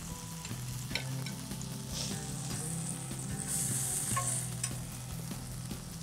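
Chicken tikka pieces sizzling in a cast-iron grill pan, a steady frying hiss that grows louder for about a second midway. A few sharp clicks of metal tongs sound against the skewers and pan.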